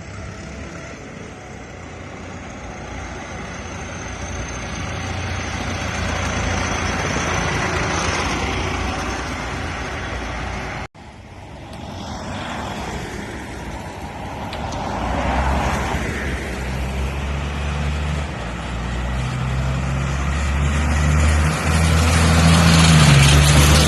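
Tractors driving past. Engine noise swells and fades as one goes by, then after a sudden break a tractor engine's low drone grows louder and nearer, loudest near the end.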